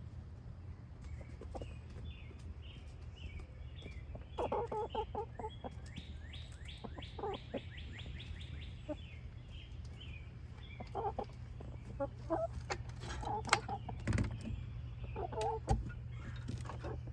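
Orpington hens clucking in short bursts. A quick run of high repeated chirps sounds over the first half, and a few sharp clicks come near the end.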